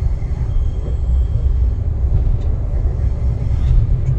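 Class 142 Pacer diesel multiple unit heard from inside its rear cab: a steady, loud low rumble from the underfloor diesel engine and the train's running.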